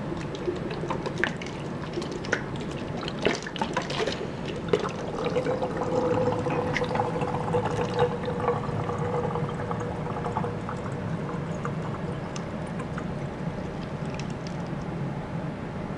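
Water being poured steadily into a bottle, filling it.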